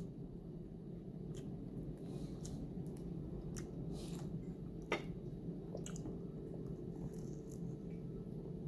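A person chewing and biting fried dumpling close to the microphone: soft wet mouth clicks scattered over a steady low room hum, the plainest about five seconds in.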